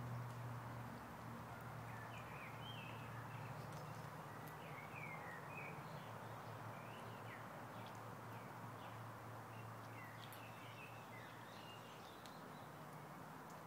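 Small birds chirping in short, scattered calls over faint outdoor noise, with a steady low hum underneath.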